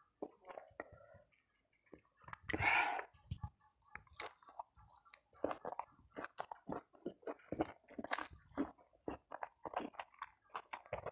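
Close-miked chewing of a mouthful of fried chicken and rice with raw chili: wet lip smacks and soft crunches in quick irregular succession. About two and a half seconds in comes one loud hissing breath through the mouth, from the heat of the chili.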